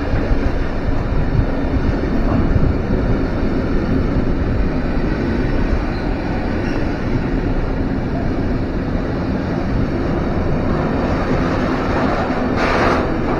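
A train running through the station with a steady rumble and a faint hum. A short hiss comes near the end.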